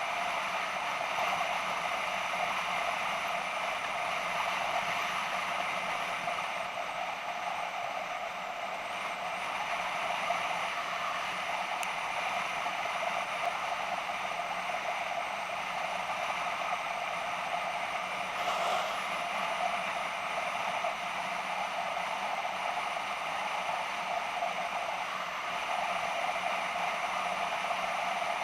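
BMW F650GS motorcycle riding at a steady pace, its engine and the rush of wind making an even mechanical drone.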